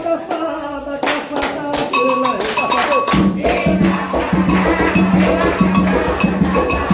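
Candomblé ritual drumming: atabaque hand drums and a struck bell playing an interlocking rhythm, with the deep drum coming in strongly about three seconds in.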